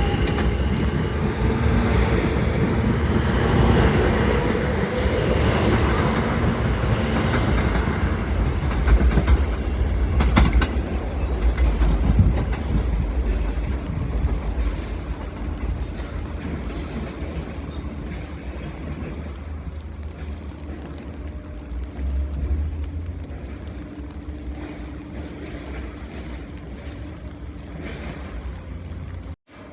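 New York City subway L train running on the track, loud at first with a few sharp knocks about ten seconds in, then fading steadily as it moves away.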